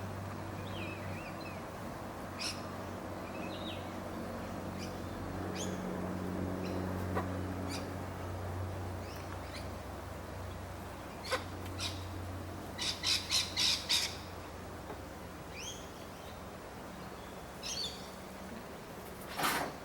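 Backyard birds calling with scattered short squawks and chirps, with a quick run of about five loud calls a little past the middle and another loud call near the end, over a low steady hum.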